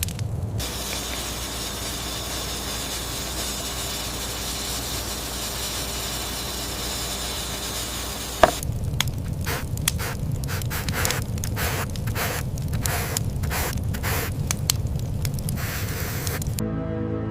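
Steady hiss for about eight seconds, then a sharp snap followed by a run of irregular crackles and crunches; music comes in near the end.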